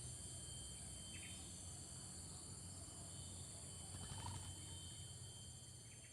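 Steady drone of insects in a rural chorus, with a low hum beneath and a couple of faint, short bird chirps.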